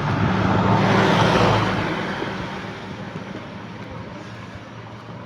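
A motor vehicle passes close by: engine and tyre noise swell to a peak about a second in, then fade away. Under it runs a steady low engine hum.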